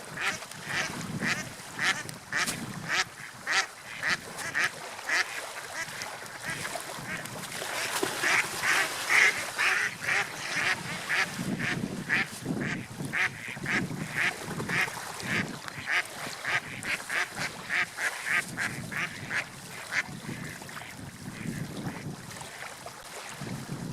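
Ducks quacking in a rapid run of short repeated calls, a few a second, with no break.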